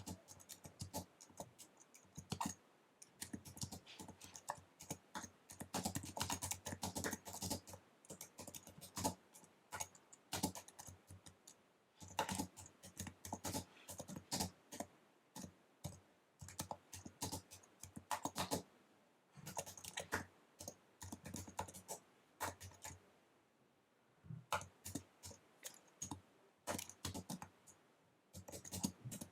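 Fast typing on an Apple wireless keyboard: quick runs of crisp key clicks broken by short pauses every few seconds.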